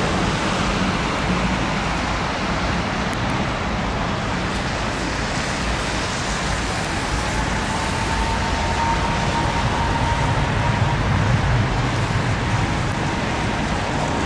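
Jet airliner's engines on approach: a faint whine that comes in about halfway and a low rumble building near the end, under heavy wind noise on the microphone.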